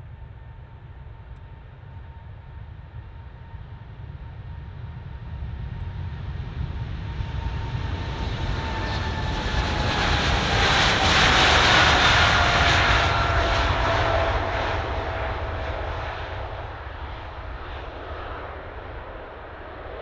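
Boeing 747 jet engines as the airliner flies past: the sound swells to a peak about halfway through and then fades, with a low rumble under a whine that drops in pitch as it goes by.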